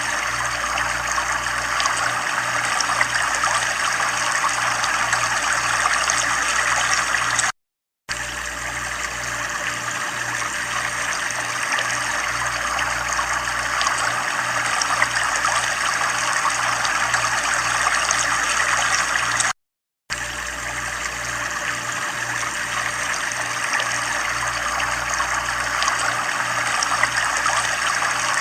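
Running water, a steady trickling flow with a faint low pulsing hum beneath it. It cuts out to silence for about half a second twice.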